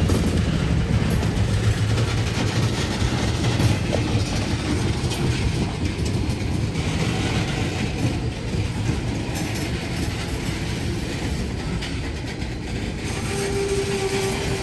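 Loaded ethanol tank cars rolling slowly past, steel wheels running on the rails, gradually getting quieter. A steady squeal from the wheels starts near the end.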